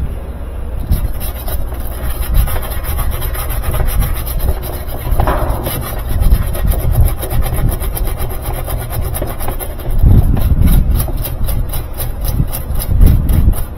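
Wire brush scrubbing back and forth over plastic, roughing up the surface so the hot-melt patch compound will bond. The strokes come quick and repeated, faster and more even near the end.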